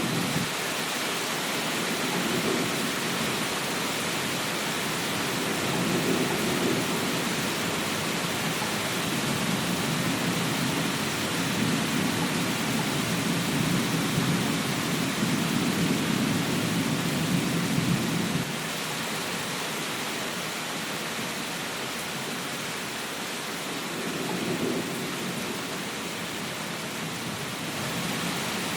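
Steady rain hiss with low rolling thunder underneath. The rumble swells and is heaviest about two-thirds of the way through, drops off suddenly, then returns briefly near the end.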